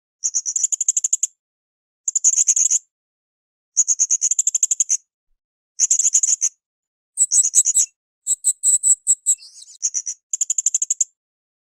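Blue-crowned hanging parrot (srindit) calling: high, rapid chattering trills about a second long, repeated every couple of seconds. In the middle a few faint low knocks come with a slightly different, broken-up phrase.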